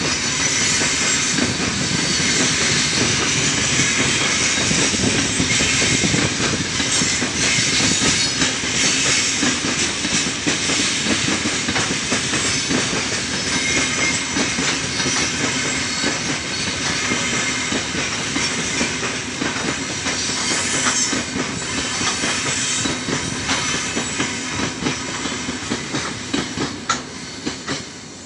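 The open-top gondola wagons of a heavy freight train roll past close by: a steady rumble and clatter of steel wheels on the rails. It dies away near the end as the tail of the train goes by.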